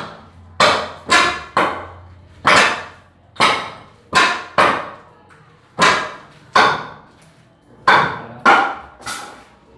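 A hand tool striking wood again and again: about a dozen sharp blows at uneven intervals, each ringing briefly.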